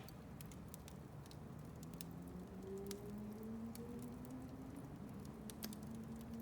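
Wood fire crackling in a fireplace, with scattered sharp pops at irregular intervals. A faint low hum rises slowly in pitch from about a second and a half in.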